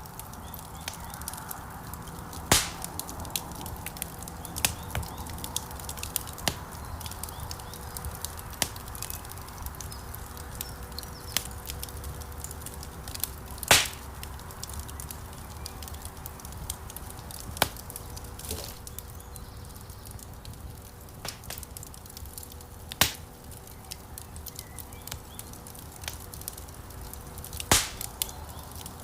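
Wood fire burning in a stone fireplace: a steady low rumble of flames with constant small crackles and a few loud sharp pops from the burning logs.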